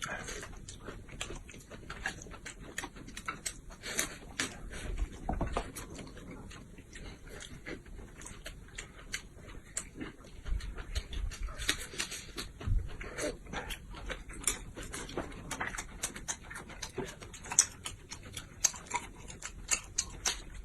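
Close-miked eating sounds: chewing and smacking, with many short, irregular clicks and crackles.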